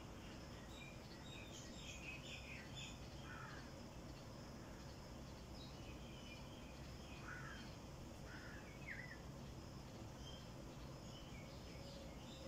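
Birds chirping and calling faintly in short, scattered calls over a steady low background rumble.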